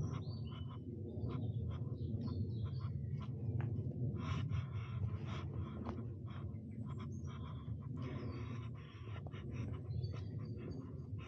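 Footsteps crunching on a leaf- and twig-strewn forest trail, roughly one step a second, over a steady low rumble, with a few short high bird chirps.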